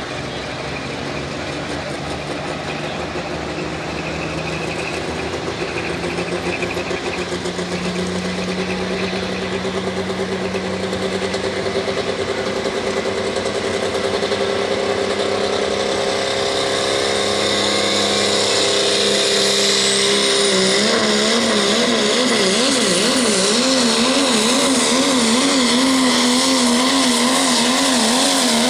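Pro Stock diesel pulling truck's engine working hard under load, growing steadily louder. A faint high whistle rises about two-thirds in, and in the last third the engine pitch wavers quickly up and down as the revs surge and drop.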